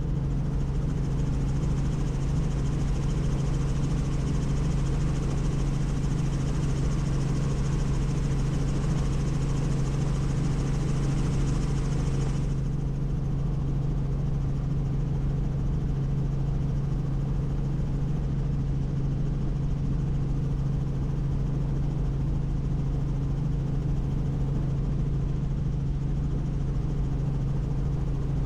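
Helicopter in flight heard from inside the cabin: a steady low drone from the rotor and engine, with a rushing of air on top that cuts off sharply about twelve seconds in.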